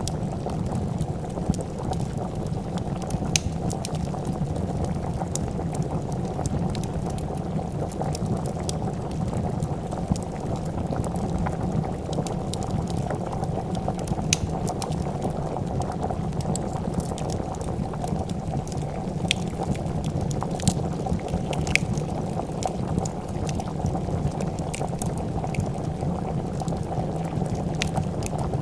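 A pot of soup bubbling steadily at a rolling boil, with a wood fire's crackles and pops scattered irregularly over it.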